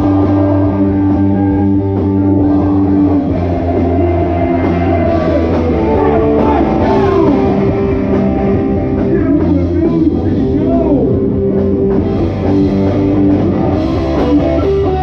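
Rock music: electric guitar over bass and drums, playing steadily throughout.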